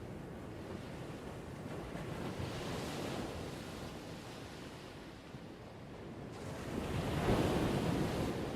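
Ocean waves washing ashore, a steady rush of surf with two swells, the larger one near the end.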